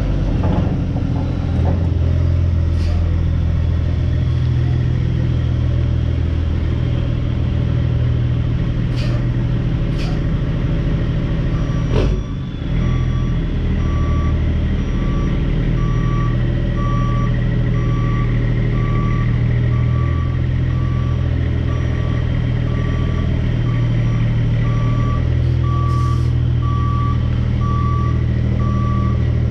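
Diesel engine running steadily. Partway through, a backup alarm starts beeping at an even pace and keeps going.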